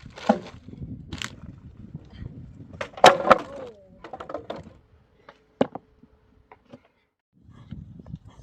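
Wood cracking and knocking, a series of sharp snaps and clatters with the loudest about three seconds in, as broken stable timbers are handled. A short lull near the end.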